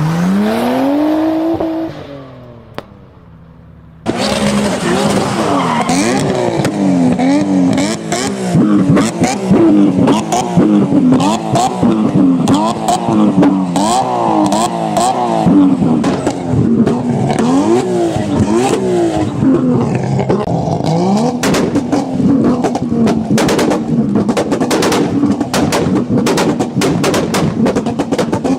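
Tuned high-performance car engine revving up sharply, then cutting out. About four seconds in, an engine starts revving up and down hard over and over, with many sharp cracks and pops through it.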